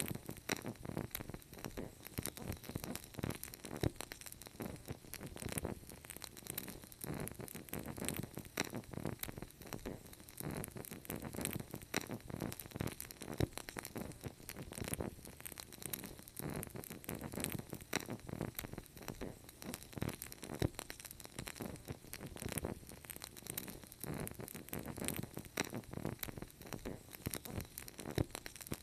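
Wood fire crackling steadily in a fireplace: a continuous stream of small pops and snaps over a soft hiss.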